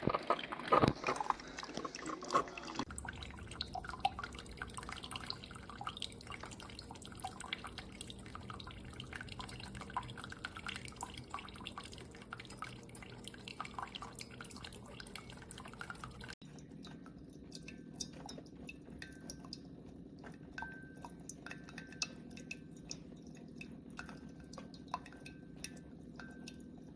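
Keurig K-Supreme Plus single-serve coffee maker brewing: a steady low hum under many small drips and sputters of liquid. The hum shifts about two-thirds of the way through.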